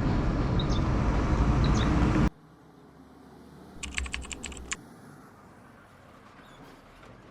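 Loud wind and road noise on a motorcycle helmet camera's microphone, cutting off abruptly about two seconds in. A few seconds of low background follow, broken about four seconds in by a quick run of about eight small clicks.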